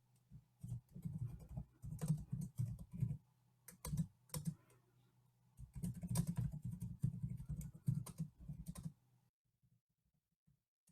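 Typing on a computer keyboard: irregular runs of key clicks that pause twice and stop about nine seconds in.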